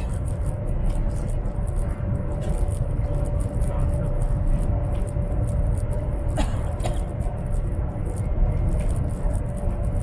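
Steady low rumble of a high-speed train running at speed, heard inside the passenger carriage, with a thin steady hum over it and a couple of light clicks about six seconds in.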